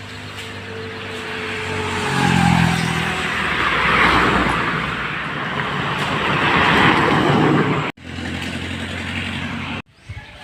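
A motor vehicle passing close by: its engine grows louder as it approaches, then gives way to a loud rushing noise as it goes past. The sound cuts off abruptly about eight seconds in.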